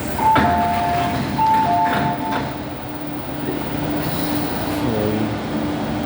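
A two-note electronic chime, high then low, sounds twice in quick succession over the running noise of an MTR Island Line M-Train. A steady hum from the train continues, with a short pitch glide about five seconds in.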